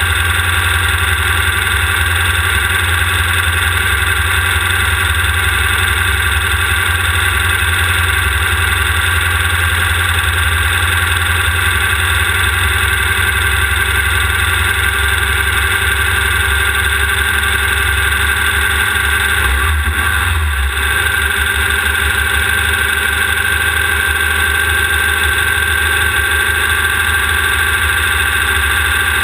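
The air-cooled 1600 cc VW engine of a Class 1600 off-road race buggy running at a steady pitch, a loud, even drone with a brief dip about twenty seconds in.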